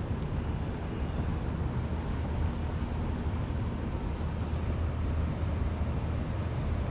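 Insects chirping in an even, high, pulsing rhythm of several pulses a second over a constant rushing background noise.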